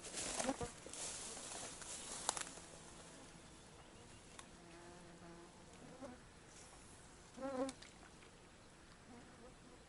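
Insect buzzing near the microphone, with a short, louder, wavering buzz about three-quarters of the way through. The first couple of seconds hold rustling with two sharp clicks.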